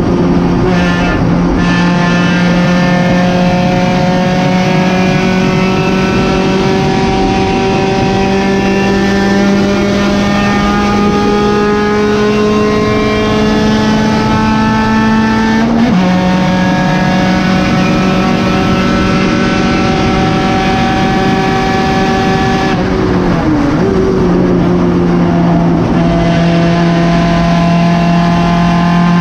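1991 Honda Civic's D16 four-cylinder race engine at full throttle, heard from inside the stripped cabin with road and wind noise. Its pitch climbs slowly, drops suddenly about halfway through as it shifts up, and then dips briefly and recovers near the end.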